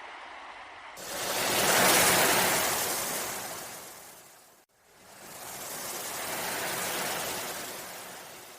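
Two ocean waves washing in one after the other, each swelling up to a peak and then drawing back. The first starts suddenly about a second in and is the louder.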